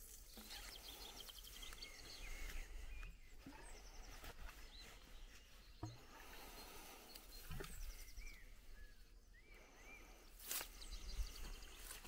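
Faint birdsong: several quick trills of rapidly repeated high notes and a few short rising-and-falling whistles, with a couple of soft knocks.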